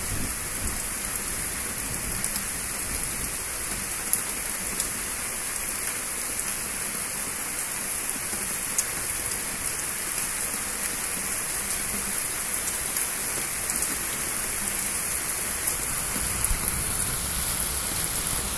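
Steady heavy rain falling in a thunderstorm: an even hiss of rain on surfaces, with a few sharper drop ticks.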